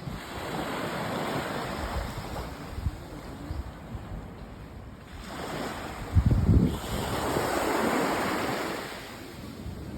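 Waves from a rough sea breaking and washing up the beach at high tide, in two surges: a smaller one in the first couple of seconds and a bigger one from about five to nine seconds in. A gust of wind buffets the microphone about six seconds in.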